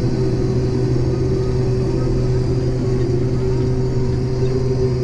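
Combine harvester's engine running steadily with a constant, even drone while the machine sits waiting, its grain tank full.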